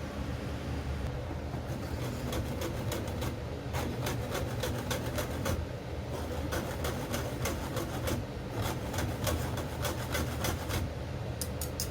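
Kitchen utensils scraping and clicking in quick, repeated strokes over a steady low hum.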